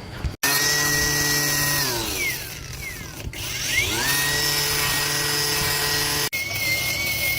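Electric power tool motor running steadily. About two seconds in it winds down, then speeds back up to full speed a second or so later. The sound breaks off abruptly twice, and after the second break a thinner, higher steady whine runs on.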